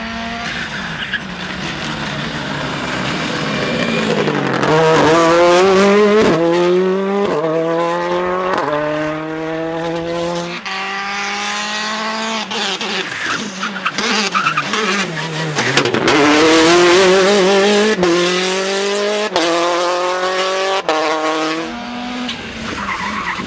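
Rally car engine accelerating hard through the gears, its pitch climbing and dropping back with each quick upshift, about five shifts in a row. A second run of upshifts follows after a brief lull.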